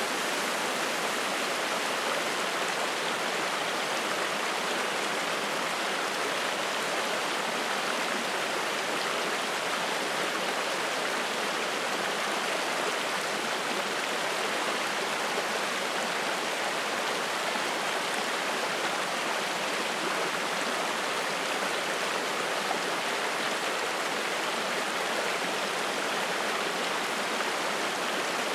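Spring-fed mountain stream flowing and splashing over rocks: a steady, unbroken rush of water.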